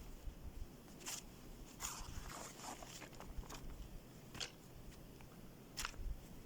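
A few scattered short crunches and rustles, about half a dozen over several seconds, over a low rumble.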